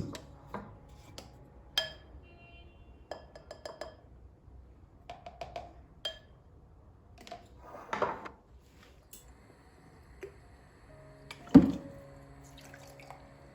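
Dishes and glassware being handled: scattered light clinks, several with a short ringing tone, and two louder knocks, one about eight seconds in and one near the end, over soft background music.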